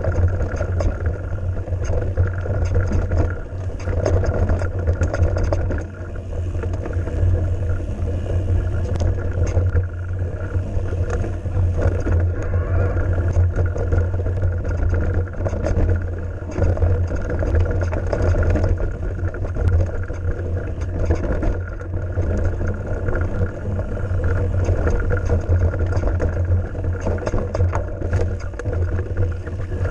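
Mountain bike riding along a trail: steady wind rumble on the microphone over tyre noise, with frequent small clicks and rattles from the bike.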